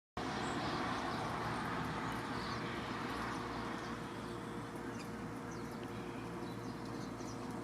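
Silvereyes (waxeyes) giving scattered short, faint high chirps over steady background noise.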